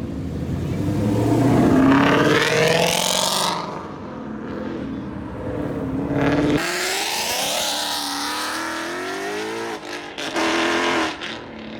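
Ford Mustang engine revving hard. Its pitch climbs for about two seconds near the start, climbs again for about three seconds in the middle, then gives a short blip near the end.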